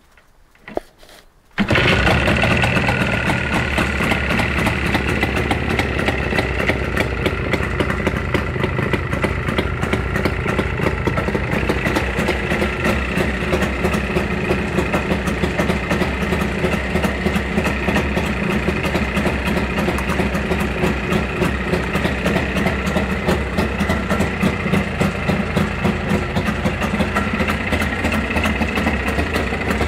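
Jawa 350 type 638 two-stroke twin-cylinder motorcycle engine starting: a couple of short clicks, then it catches abruptly about a second and a half in and settles into a steady, fast-pulsing idle.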